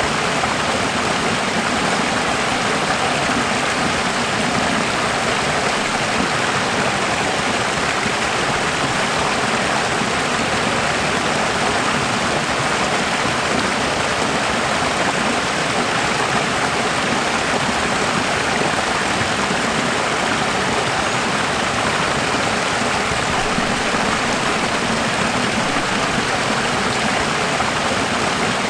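Running water flowing steadily, an even rushing noise with no change over the whole stretch.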